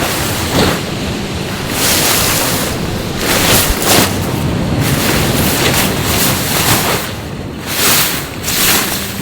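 Sea waves washing onto the shore, surging and falling back several times, with wind buffeting the microphone.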